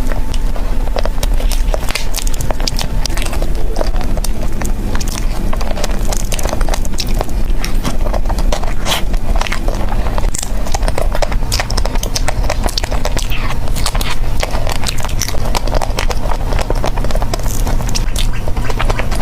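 Close-miked chewing and smacking of birthday cake: a dense, steady run of wet mouth clicks and smacks.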